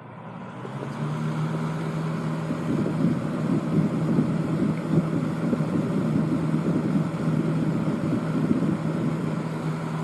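1970s Lakewood 12-inch box fan with a Fasco motor speeding up to high, then running steadily with a rush of air over a motor hum. It rattles a little because of its cracked, epoxy-repaired blade.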